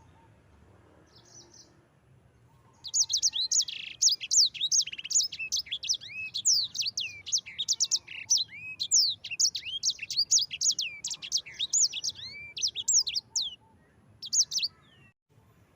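A sanger songbird singing: after a quiet start with one faint short phrase, about three seconds in it breaks into a long, fast rolling song of rapid high slurred notes, stopping about two seconds before the end with one short phrase after it.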